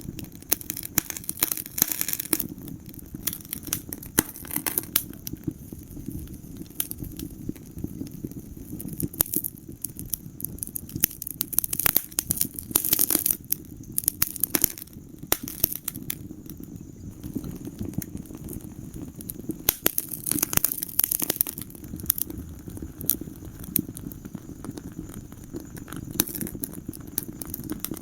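Wood fire crackling in a fireplace: frequent sharp pops and snaps, bunched in a few quick flurries, over a steady low rumble of the burning.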